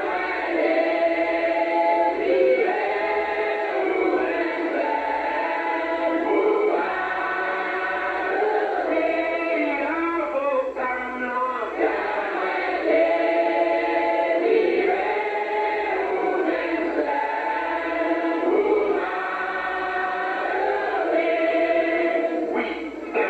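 A group of people singing a hymn together, in repeated phrases with long held notes.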